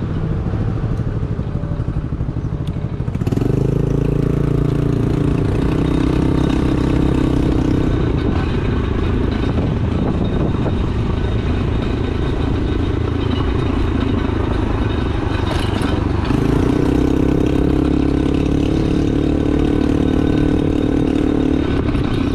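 2022 Honda Navi's small single-cylinder engine running as the bike is ridden. It pulls harder from about three seconds in, eases off after about eight seconds, and pulls hard again from about sixteen seconds, each time holding a steady note.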